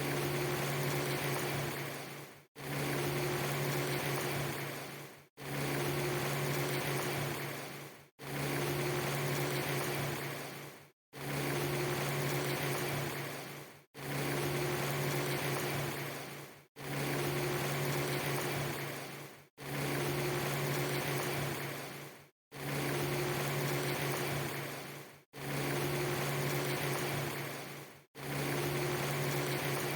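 Steady rushing noise with a low, even hum under it, a clip of under three seconds looped over and over: each repeat fades at its end, drops out to silence for an instant and starts again, about ten times.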